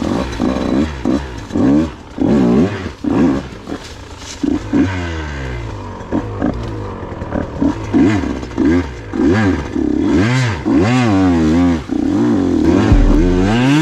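Single-cylinder KTM 125 two-stroke dirt bike engine, revving up and falling back in quick, repeated throttle bursts as it is ridden through slick mud.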